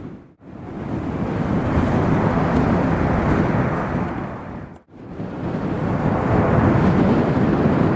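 Strong gusting wind buffeting the microphone, a loud low rumble that cuts out abruptly twice, about half a second in and just under five seconds in.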